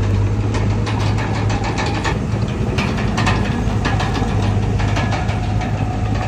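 Heavy diesel engine running steadily, with frequent short clanks and ticks over it.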